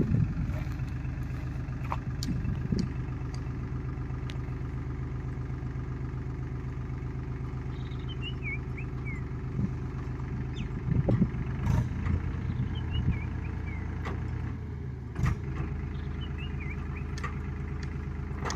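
Diesel farm machinery engine running steadily, its low note shifting about fifteen seconds in, with a few knocks around the middle. A short run of high, falling notes sounds three times.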